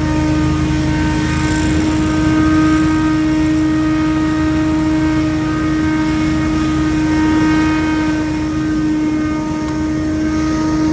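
Engine of a large commercial leaf-cleanup machine running steadily at high throttle, with a strong steady drone and fainter overtones above it.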